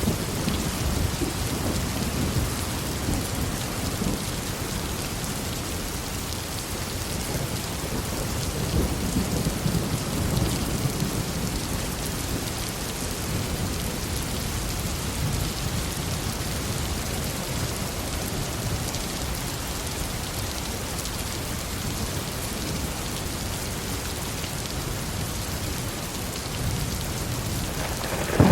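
Heavy rain falling steadily with low rolling thunder rumbling beneath it, swelling and fading a few times.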